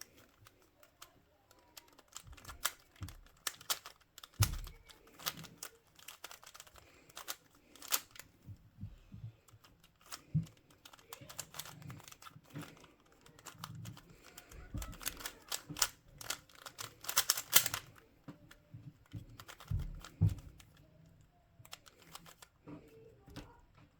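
Plastic puzzle cube being turned by hand: irregular clicking and clacking of the layers, with a fast run of turns about two thirds of the way through and a few dull knocks.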